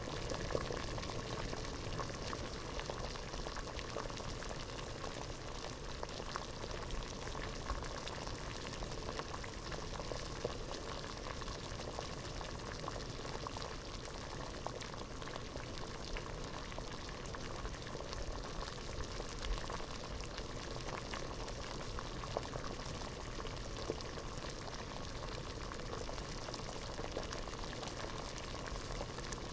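Water at a rolling boil in a pot, a steady dense bubbling with many small irregular pops.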